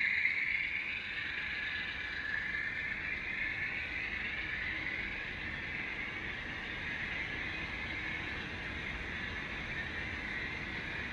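HO scale model train running along the layout's track: a steady whirring and rolling noise from the motor and wheels on the rails, drifting slowly up and down in pitch.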